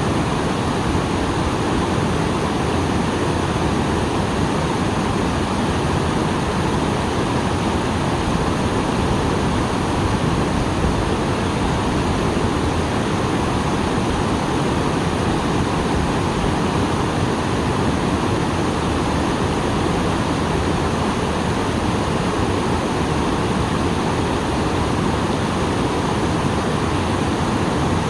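Small waterfall pouring steadily after rain, a dense, unchanging rush of falling water.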